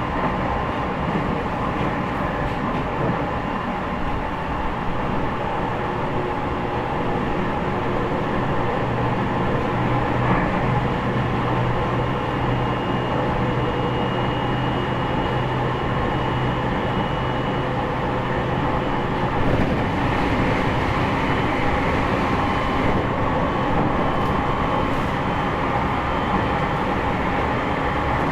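Inside a JR E501-series electric train's motor car running at speed: steady traction-motor and wheel-on-rail noise, with faint air-conditioning. A low hum drops out about twenty seconds in, and the sound changes from then on.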